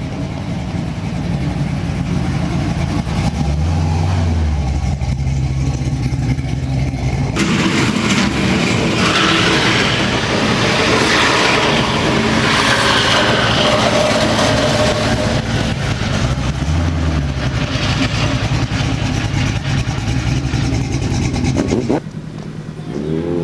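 A car engine running and revving hard. From about seven seconds in, a loud rush of noise joins it and holds until it cuts off suddenly near the end.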